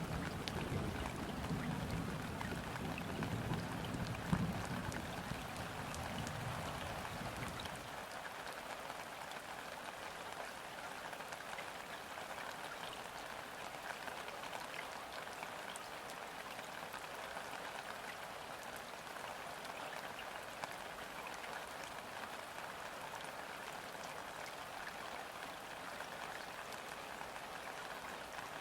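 Gentle rain falling steadily onto a river's surface, a dense patter with single drops ticking out of it. A low rumble lies under the first eight seconds or so, then stops abruptly.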